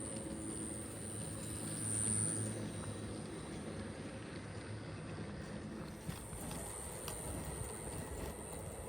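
HO scale brass CNJ Camelback 4-6-0 model locomotive running along track: a steady motor and gear hum with a thin high whine, swelling slightly about two seconds in, and a few light clicks of wheels on rail near the end.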